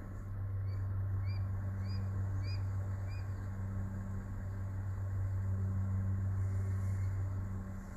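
A bird gives about five short, evenly spaced chirps in the first three seconds over the steady low hum of an idling vehicle.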